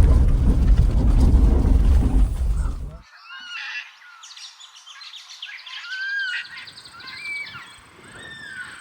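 Low rumble of a vehicle driving for about three seconds, cutting off suddenly; then several birds calling, with short arching and gliding whistled notes.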